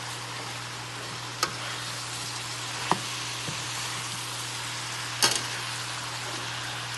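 Food sizzling steadily in a hot pan on the grill, broken by three sharp knocks, the loudest about five seconds in.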